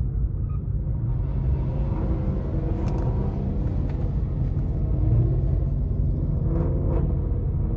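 Low, steady rumble of a car engine running, with faint wavering sounds and a couple of brief clicks over it.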